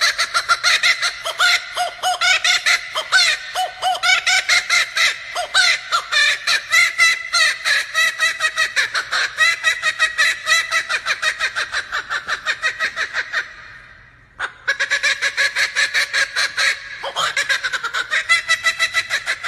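Male laughing kookaburra giving its laughing call: a long, loud run of rapid repeated hooting notes, several a second. It breaks off briefly about two-thirds of the way through, then starts up again.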